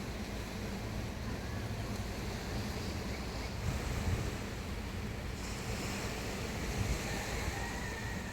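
Steady beach ambience: waves washing on the shore mixed with wind rushing over the microphone.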